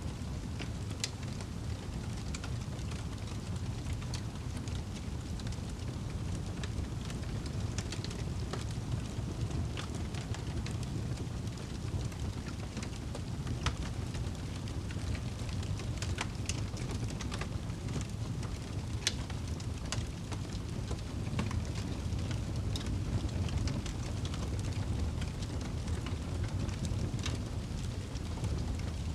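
Wood fire burning in a fireplace, with scattered sharp crackles and pops over a steady low rumble.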